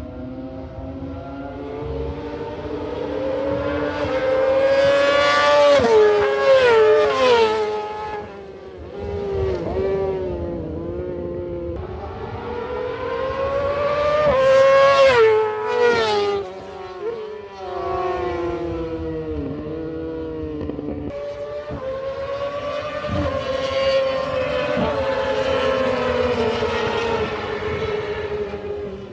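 High-displacement racing motorcycles accelerating hard: the engine note climbs and then falls in steps as the rider shifts up, about six seconds in and again around fifteen seconds in, followed by a longer stretch at high revs.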